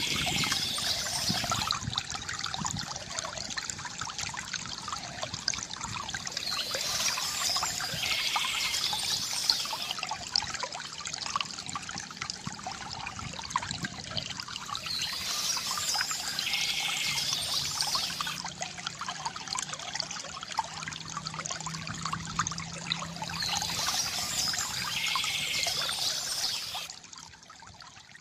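Water trickling and splashing steadily from a bamboo fountain, with birds chirping in short spells about every eight seconds. The sound drops off sharply near the end.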